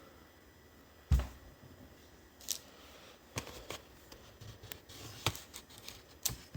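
A few scattered sharp clicks and light knocks, with one louder low thump about a second in.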